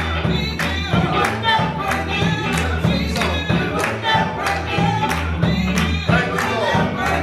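Gospel choir singing with a live band: a steady bass line under the voices and a sharp beat about twice a second, from drums or hand claps.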